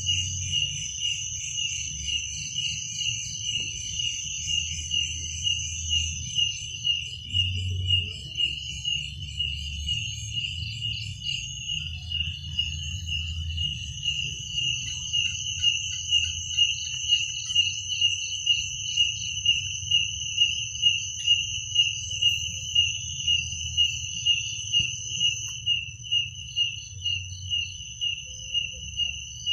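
Crickets chirping: one loud chirp repeating a little under twice a second over a steady, higher, unbroken trill from other insects, with a low rumble underneath.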